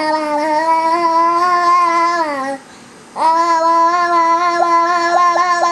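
Baby holding long, steady, sing-song vocal notes: a first held tone that slides down at its end, then after a short breath a second long note at the same pitch with small quick catches in it.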